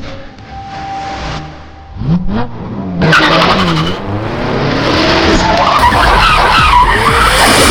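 A car engine revving up and down, then a loud, wavering tyre squeal from about three seconds in as the car skids through turns.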